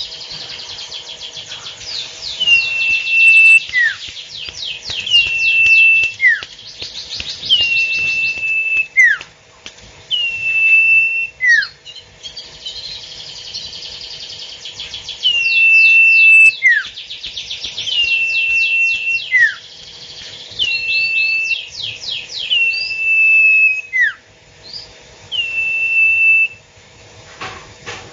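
Sirtu bird calling over and over without pause. Each call is a quick rattling trill followed by a held high whistle that drops sharply at its end, repeating about every two seconds over a faint steady hum.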